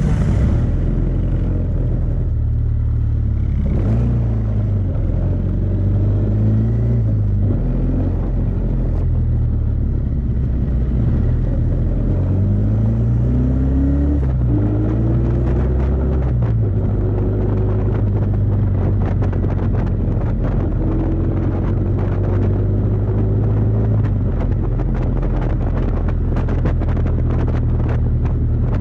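Kawasaki VN750 Vulcan's V-twin engine running while riding, heard from on the bike. Its pitch rises and drops with throttle and gear changes during the first half, then holds steady at cruise.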